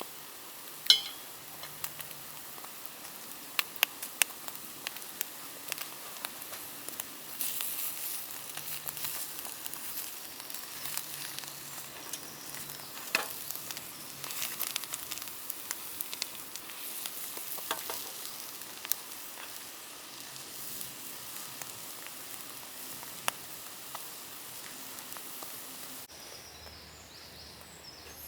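Food frying in a pan: a steady sizzle with scattered sharp pops, which fades out about three-quarters of the way through.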